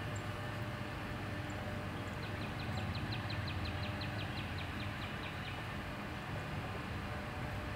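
A small songbird sings a fast series of about twenty short, high notes, from about two seconds in until just past halfway, over a steady low rumble.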